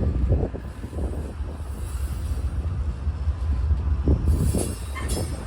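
Union Pacific freight train rolling past with a steady heavy low rumble and irregular knocks from the cars. A brief high squeal, typical of wheels on the rail, comes near the end.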